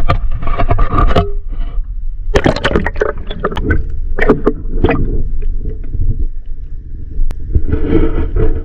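A boat under way: a steady low rumble, with many irregular sharp knocks and clatters over it.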